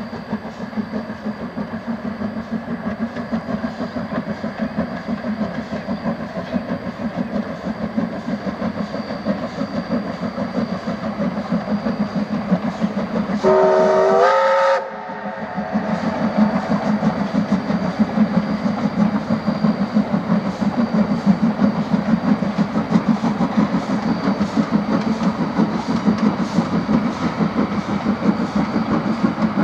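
Steam locomotive A 428, a 1909 4-6-2 Pacific, working hard with its exhaust chuffing in fast, even beats. About halfway through, its steam whistle gives one loud blast of about a second and a half that cuts off sharply.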